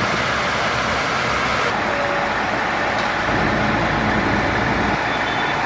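Steady noise of fire engines running, with no siren, the sound changing abruptly about two seconds in.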